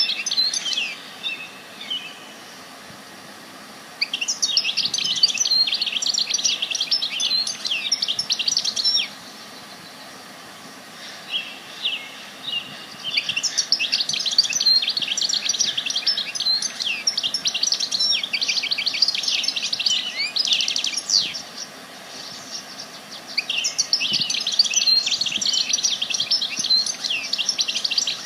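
Songbird song: long runs of rapid high chirps and trills, several seconds each, broken by pauses of a few seconds, over a faint steady outdoor background.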